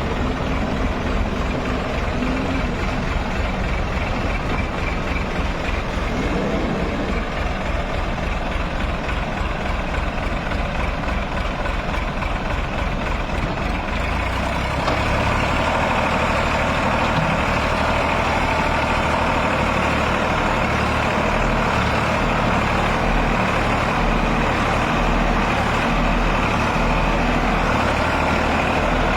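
Heavy vehicle's diesel engine running steadily, growing louder with a deeper rumble about halfway through.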